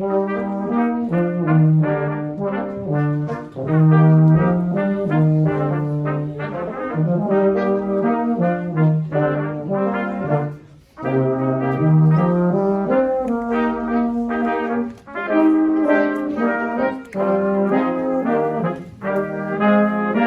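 Brass quartet playing an instrumental passage of short, separated chords that change quickly, breaking off briefly about eleven seconds in before carrying on.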